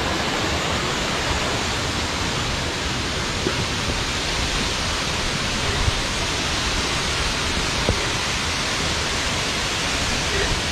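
Steady rush of flowing water from the waterfall and its stream, with a few faint knocks.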